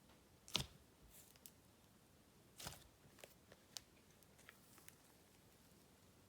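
Faint slime-handling sounds: a few short sticky clicks and crackles, the two clearest about half a second and two and a half seconds in, over near silence.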